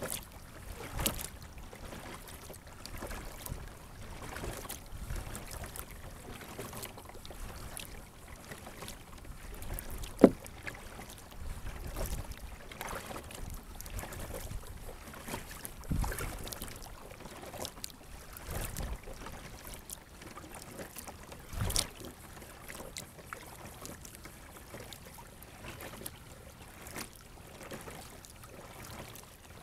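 Sit-on-top kayak being paddled: irregular dipping and splashing of the paddle in the water, with small knocks and drips. One sharp knock about ten seconds in is the loudest sound.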